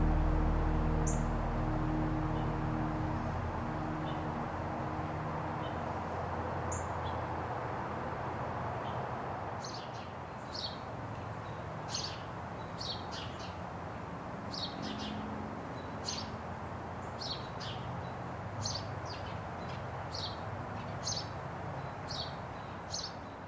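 Low ambient music tones fade out over the first few seconds, leaving a steady soft outdoor hiss. From about ten seconds in, a small bird chirps repeatedly, roughly once a second.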